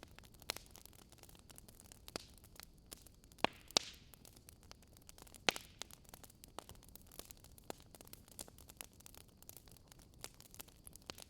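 Wood fire crackling in a fireplace: irregular sharp pops and snaps, several louder ones about three and a half to five and a half seconds in, over a faint steady hiss.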